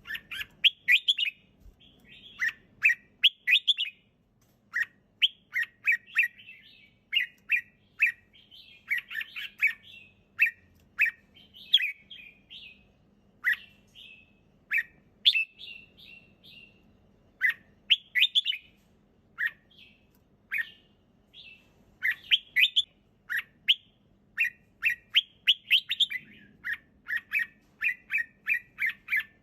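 Red-whiskered bulbul singing: short, quick chirping phrases repeated one after another with brief pauses between them.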